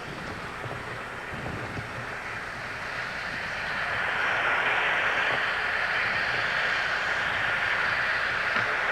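Rushing engine noise swelling louder from about three seconds in and holding there.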